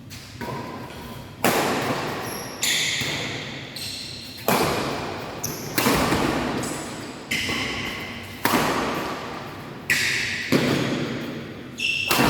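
Badminton rally in a hall: racket strings smacking the shuttlecock about once a second, each hit echoing off the walls, with the squeak of shoes on the court floor between shots.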